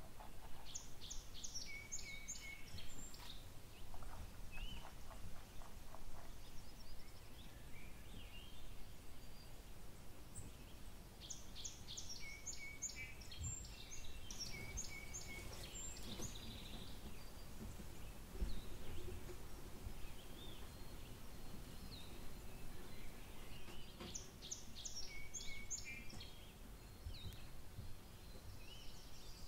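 A songbird singing the same short, high-pitched phrase of quick notes and short whistles three times, roughly ten seconds apart, over faint outdoor background noise.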